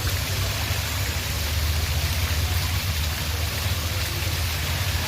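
Water fountain splashing steadily, over a steady low rumble.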